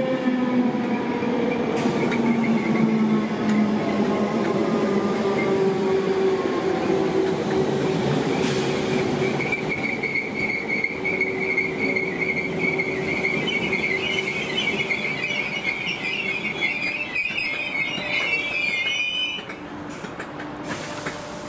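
Merseyrail electric multiple unit slowing down: its motor whine falls steadily in pitch over the first few seconds. About eight seconds in, a steady high-pitched squeal from the train sets in. It wavers near the end and cuts off, and the overall sound drops.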